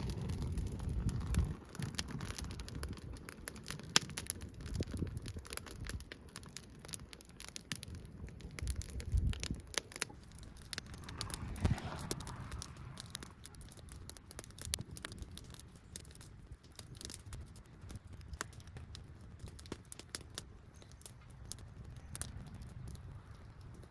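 Campfire crackling, with many sharp irregular pops and snaps spread throughout.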